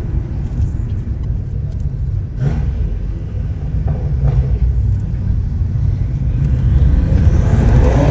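BMW F10 M5 Competition's twin-turbo V8 running at low revs with a steady deep rumble, building louder near the end.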